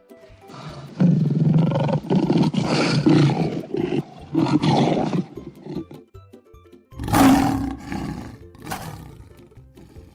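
Lion roaring, a long run of roars followed by two shorter roars near the end, with background music underneath.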